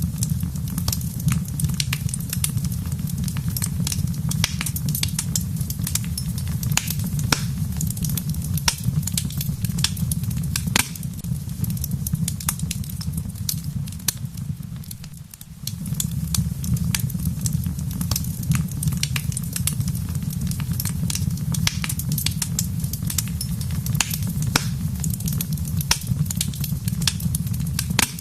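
Wood fire in a fireplace crackling, with frequent sharp pops over a steady low rumble. About halfway through, the sound fades briefly and comes back.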